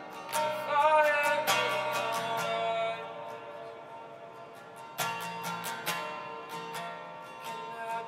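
Live worship music: an acoustic guitar strumming chords, with a voice singing a short gliding line in the first two seconds. The strumming thins out about three seconds in and comes back strongly near five seconds.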